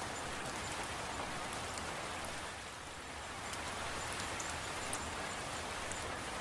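Steady rain falling, an even hiss with scattered light drop ticks, easing slightly for a moment about three seconds in.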